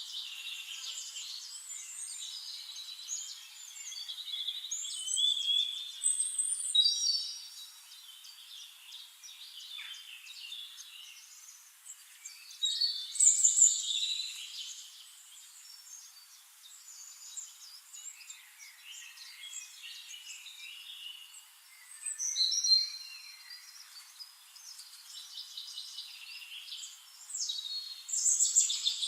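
Several forest birds singing and calling at once, a dense mix of overlapping chirps, trills and whistled phrases, with a few louder phrases standing out every several seconds.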